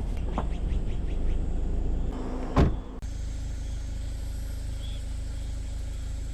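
Jeep Wrangler on a rough forest road, its tyres and body rumbling, with a sharp knock about two and a half seconds in. About three seconds in the sound switches suddenly to a steady, quieter low vehicle hum.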